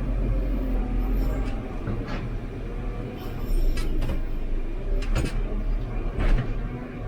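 JCB 3CX backhoe loader's diesel engine running steadily, heard from inside the cab, with scattered knocks and scrapes as the loader bucket pushes crushed stone.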